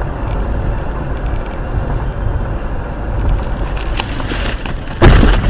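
Steady low rumble and road noise of a moving vehicle, then a sudden loud burst of noise about five seconds in.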